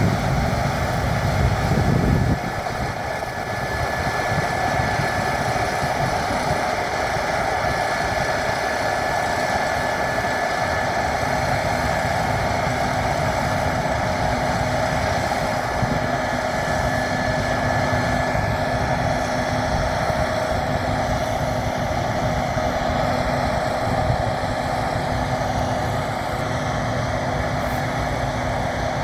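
Case IH 7150 combine harvester running steadily at work, a continuous machine drone with a steady whine over it. A heavier low rumble drops away about two seconds in.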